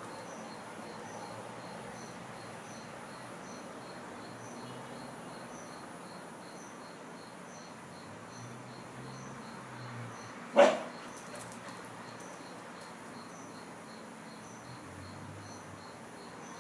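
A dog barks once, a single short loud bark about ten seconds in, over steady, evenly pulsing insect chirping.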